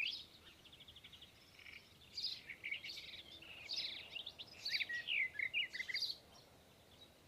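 Small birds chirping and twittering in quick, high calls, with a fast rattling trill about a second in; the calls thin out near the end.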